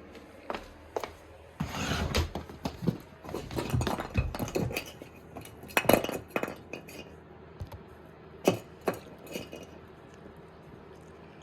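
Irregular clattering of hard knocks, scrapes and clinks, coming thick and fast for a few seconds and then thinning to a few single knocks near the end.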